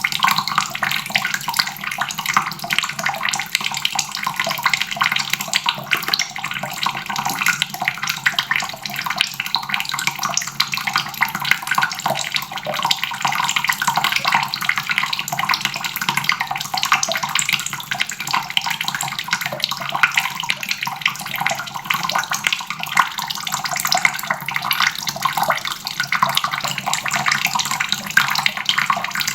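Water running steadily from a faucet, a continuous splashing rush.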